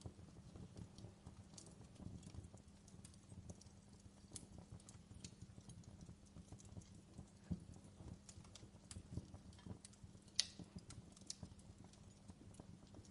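Fireplace fire crackling softly: irregular small snaps and pops over a low rumble, with one louder pop about ten seconds in.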